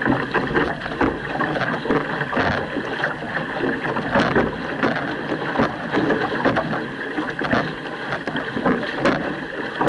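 Outrigger canoe under way with a crew paddling: paddle blades striking and pulling through the water in repeated strokes, over the steady rush of water along the hull.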